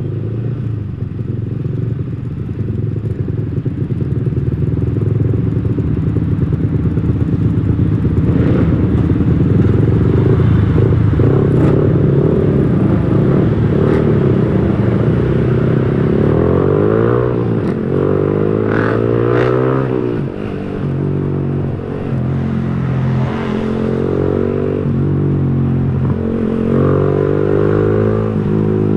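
Yamaha R15 V3's single-cylinder engine through an aftermarket Villan Agusta racing exhaust, riding under way. The engine note is steady at first, then in the second half rises repeatedly and drops back as it is revved up through the gears. The rider calls this exhaust smooth-sounding rather than boomy.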